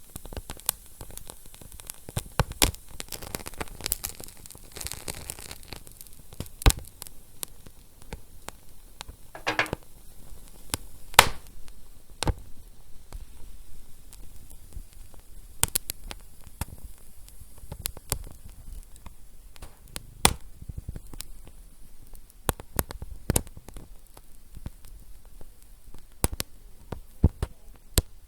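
Fire crackling: irregular sharp pops and snaps over a steady hiss, with a short hissing flare about nine and a half seconds in.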